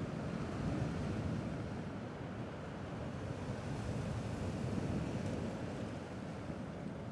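Sea waves washing on a rocky shore, a steady low wash that swells gently about a second in and again about five seconds in.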